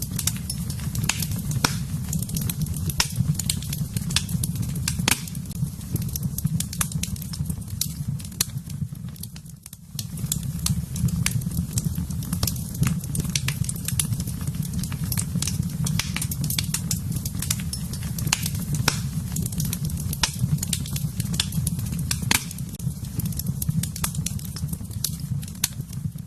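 Wood fire crackling in a fireplace: frequent sharp pops and snaps over a steady low rumble of the flames, which dips briefly about ten seconds in.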